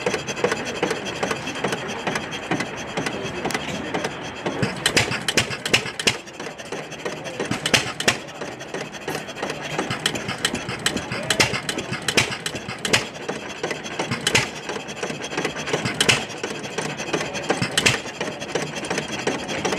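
Antique hit-and-miss gas engine running, with a steady mechanical clatter broken by sharp firing strokes that come at irregular gaps, often a second or more apart, as it fires and then coasts.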